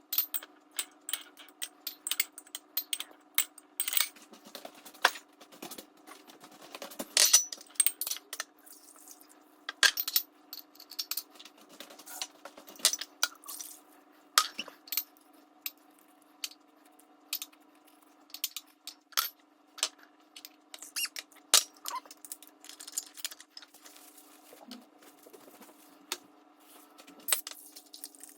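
Bottles and plastic containers being handled and set down while a fridge is sorted: an irregular run of light clicks, taps and clinks over a faint steady hum.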